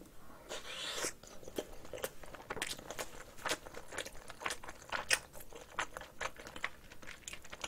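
A person chewing a mouthful of rice mixed with spicy marinated cockles close to the microphone: irregular wet mouth clicks and smacks, a few every second.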